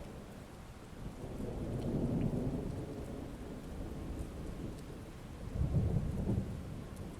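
Heavy rain falling steadily, with thunder rumbling low beneath it: one swell about two seconds in and a louder roll near the end.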